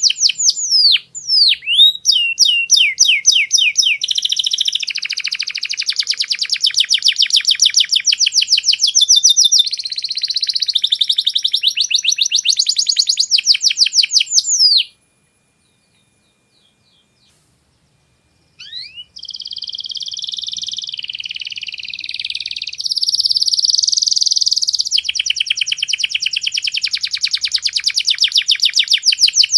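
Domestic canary singing long, rapid rolls and trills of quickly repeated high notes, phrase running into phrase. The song breaks off for about three and a half seconds midway, then starts again.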